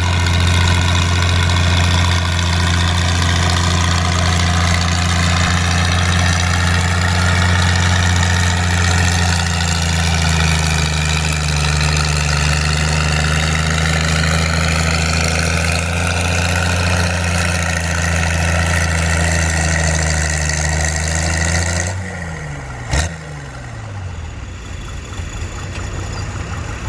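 Antique farm tractor engine pulling a sled at steady full throttle under heavy load, its pitch creeping up slightly midway. About 22 seconds in it is throttled back and winds down quickly, followed by a single sharp crack.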